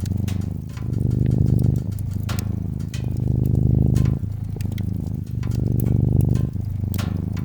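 A domestic cat purring close up, a low rapid rumble that swells and eases with each breath, over the sharp pops and crackles of a wood fire.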